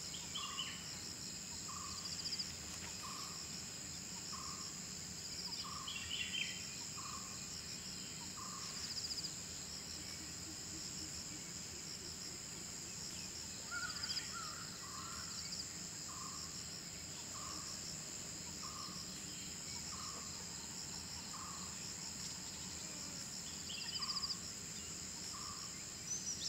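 Dawn forest ambience: a steady high insect drone with pulsing trills. Over it, a bird repeats a single short note about once a second, pausing for several seconds midway, and a few other bird calls sound briefly.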